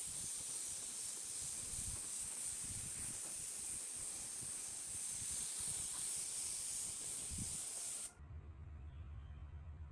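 Steady high hiss of pressurised air, as from an air nozzle or spray gun, cutting off suddenly about eight seconds in; a low hum follows.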